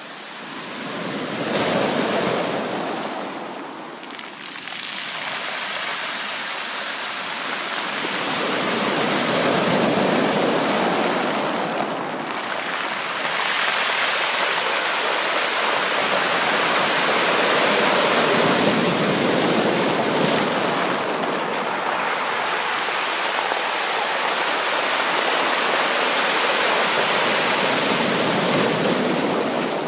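Sea waves breaking and washing up a beach: a loud, steady rush of surf that swells and eases. One wave breaks about two seconds in, the surf dips, then a longer surge builds from about eight seconds and carries on, easing near the end.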